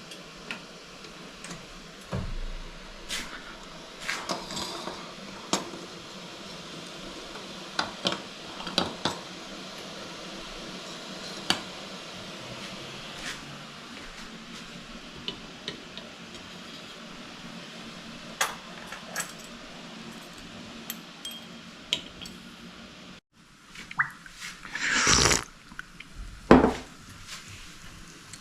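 Kitchen clatter of dishes, pots and utensils: scattered clinks and knocks over a steady background hum. Near the end the sound cuts out briefly, then a louder scrape and a sharp knock follow.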